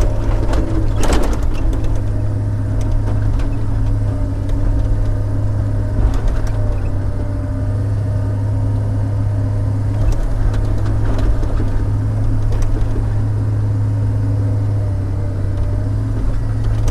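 Log loader's diesel engine running steadily under load, with a whining tone over it and a few sharp knocks, the loudest about a second in, as logs are handled onto a truck.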